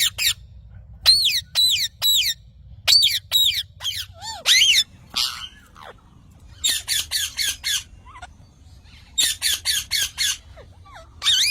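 Parrot squawking: short, harsh calls, some single and some in quick runs of four or five.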